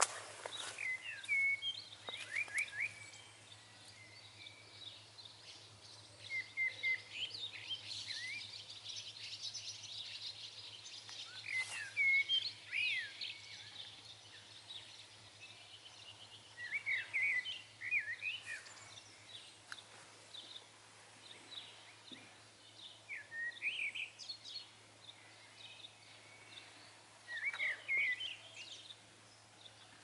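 Songbirds singing: short phrases of quick, falling chirps that come again every few seconds, over a fainter, continuous high twittering from other birds.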